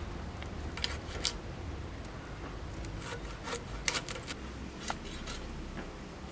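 Scattered short clicks and scrapes of food-preparation handling over a steady low background rumble, with the sharpest clicks a little after one second and about four seconds in.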